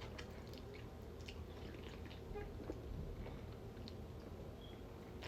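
Close-up mouth sounds of a person chewing food: soft wet smacks and small clicks at an irregular pace.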